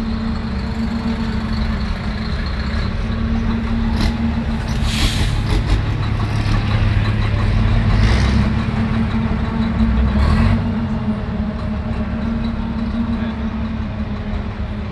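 Heavy trucks' diesel engines running as a convoy drives past, with several short hisses about four, five, eight and ten seconds in.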